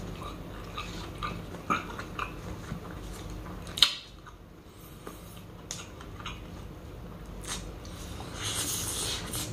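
Close-miked mouth sounds of a person chewing spicy chicken sisig: a string of wet clicks and smacks, the sharpest about four seconds in. Near the end a short noisy bite as a fresh handful goes into the mouth.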